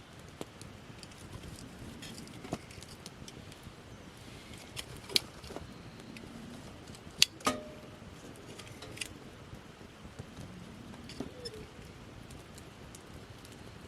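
Wood campfire of gathered branches crackling, with scattered sharp pops, the loudest few near the middle.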